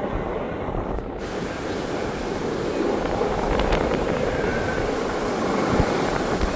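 Wind buffeting the microphone, a steady rushing roar; a higher hiss joins abruptly about a second in.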